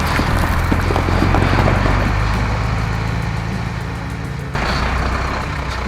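Low, steady engine rumble of a cartoon truck, with background music; the sound swells again about three-quarters of the way through.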